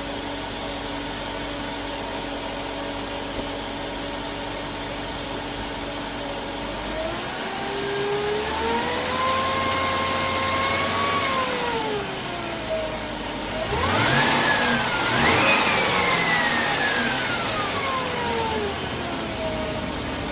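Range Rover 5.0 naturally aspirated V8 idling steadily, then pulling away. The engine climbs in pitch and eases off twice, with the second, harder acceleration a little past halfway the loudest part.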